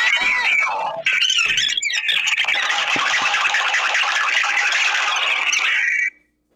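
Cockatiel singing: whistled, gliding notes in the first second, then a long run of rapid, scratchy chatter that cuts off suddenly about six seconds in.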